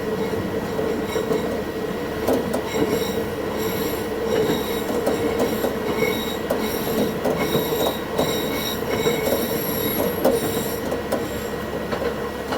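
Diesel railcar running along the line, its wheels squealing against the rails in high, wavering tones for most of the stretch. The rails are creaking under the train, heard sped up at double speed.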